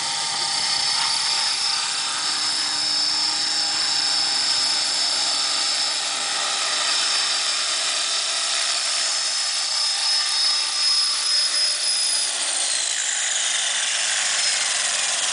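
Align T-Rex 500 electric RC helicopter's motor and rotor whine holding a steady high pitch, then falling steadily in pitch in the last few seconds as the rotor winds down.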